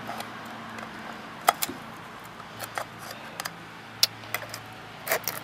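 Irregular sharp clicks and snips of a hand tool cutting through the thin metal canister of a used oil filter, about half a dozen spread over a few seconds.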